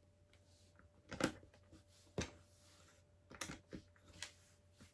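Plastic LEGO bricks clicking as they are handled and pressed together: six short, sharp clicks spaced irregularly about a second apart.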